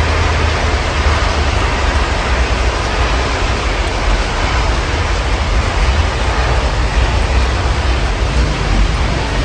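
Steady rain heard through an open window: an even, unbroken hiss of falling water, with a low rumble underneath.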